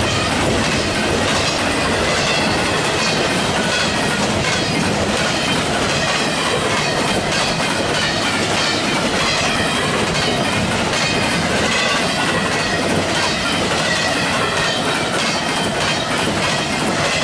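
Double-stack intermodal freight train's well cars, loaded with containers and then empty, rolling past at steady speed: a continuous rumble and clatter of steel wheels over the rails with a faint high squeal riding on top.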